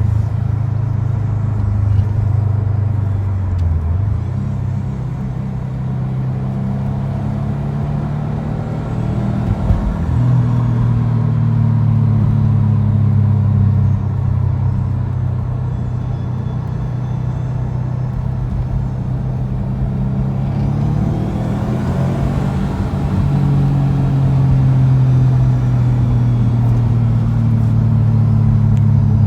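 Engine and Magnaflow exhaust of a 2012 Subaru Impreza WRX STI (turbocharged flat-four) droning while driving. The pitch shifts down and back up a few times and rises near the end as the car accelerates.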